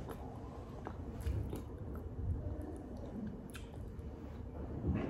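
Faint chewing close to the microphone: soft wet clicks and smacks of a mouth working on food.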